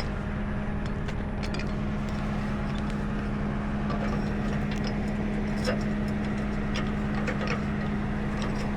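Tow truck engine idling steadily, with scattered light clicks and knocks over it.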